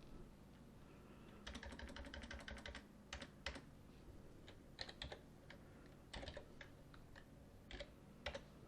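Faint typing on a computer keyboard: a quick run of keystrokes, then scattered single key presses.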